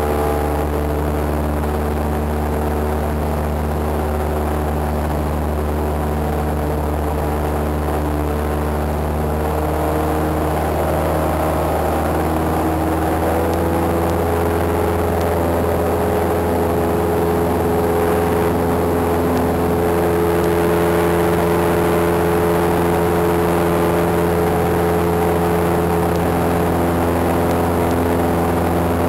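Cessna 172's piston engine and propeller running steadily in flight, a continuous drone whose pitch shifts partway through as the engine speed changes.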